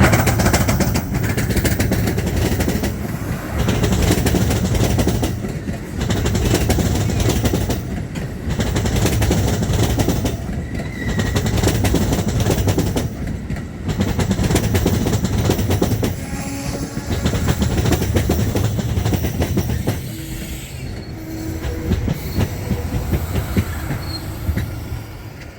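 Amtrak Superliner passenger train rolling slowly into the station, its wheels clattering over the track in a repeating beat every couple of seconds as each car passes, with a brief wheel squeal. The clatter eases and quietens near the end as the train draws to a stop.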